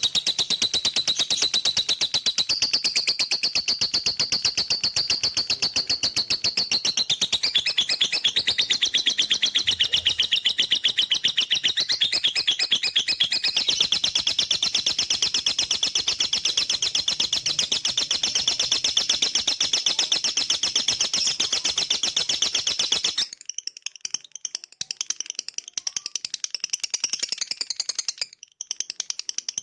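Lovebird singing 'ngekek': a long, unbroken, very fast chattering trill of high repeated notes. About three quarters of the way through it drops abruptly to a quieter, broken chatter.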